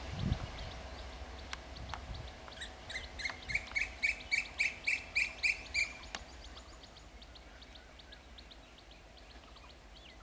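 A bird calling a quick, even series of about a dozen short notes, about three a second, that climb slightly in pitch and grow louder before stopping, with fainter chirps afterward. A low rumble from the electric multiple unit train fades out in the first couple of seconds.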